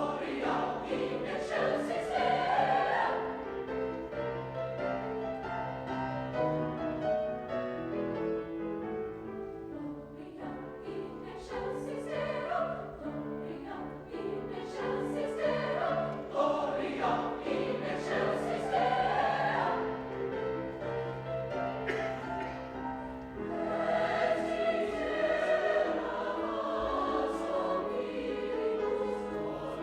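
High school choir singing in harmony, holding long chords that swell and fade.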